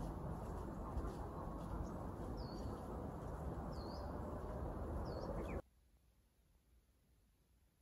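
Steady outdoor background noise with a small bird giving three short chirps about a second apart. The sound cuts off abruptly near the end, leaving near silence.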